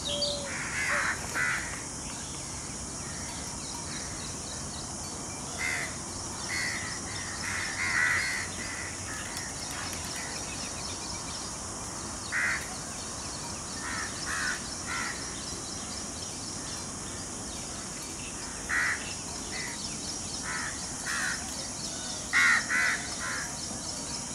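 Harsh, caw-like bird calls, short and in twos and threes every few seconds, over a steady high hiss.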